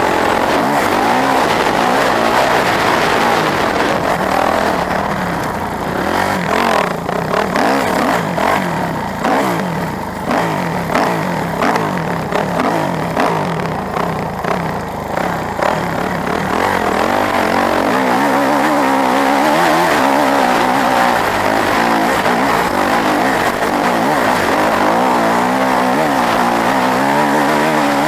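A motor vehicle engine running loud and continuously, its pitch rising and falling as it is revved, with a rushing noise throughout.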